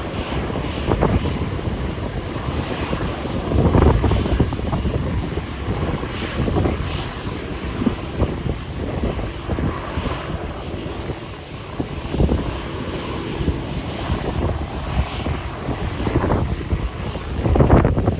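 Engine noise of a departing airliner, a steady rumble, under gusty wind buffeting the microphone.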